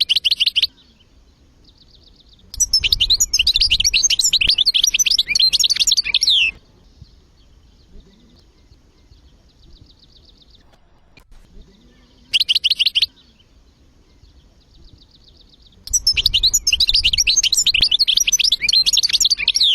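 European goldfinch singing: a short twittering burst at the start, a long run of rapid, varied tinkling notes from about two and a half to six and a half seconds, another short burst around twelve seconds, and a second long phrase from about sixteen seconds on. Faint fast chipping notes fill the pauses.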